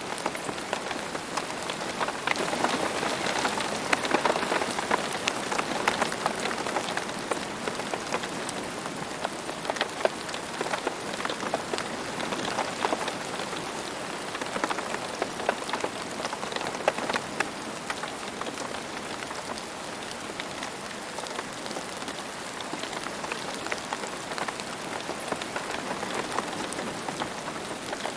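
Steady rain falling, with many individual drops ticking on a hard surface; it is a little heavier a couple of seconds in, then settles.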